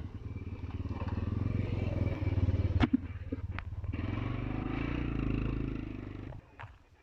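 Engine of a kutta gari, a locally built steering trolley, running with a rapid, even chugging that grows louder through the middle and drops away about six seconds in. Two sharp knocks sound about three seconds in.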